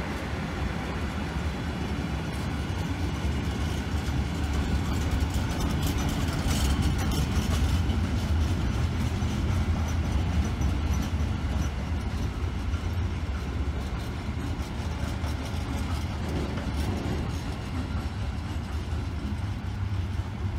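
Freight train of covered sliding-wall wagons rolling past: a steady, deep rumble of wheels on rail.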